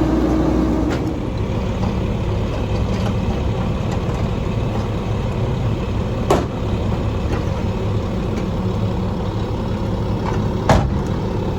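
Straight-piped diesel engine of a Mack MR garbage truck running steadily, easing to a lower level about a second in. Two sharp bangs cut through it, about six seconds in and again near the end.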